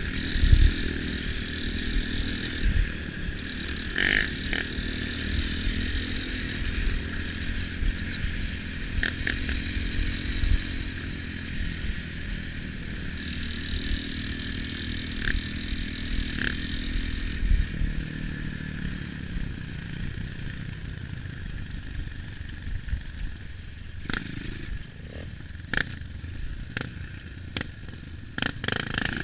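Off-road trail motorcycle engine running steadily, with scattered knocks and clatter. It quietens about three-quarters of the way through.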